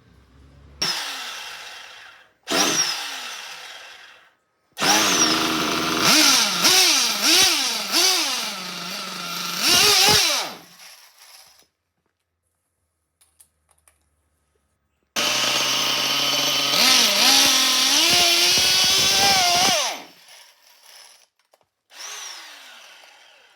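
Novarossi nitro RC engine being cranked with an electric starter in five bursts. Each burst winds down with a falling whine when it stops. In the two long bursts the pitch swings up and down as the engine tries to fire, but it does not keep running.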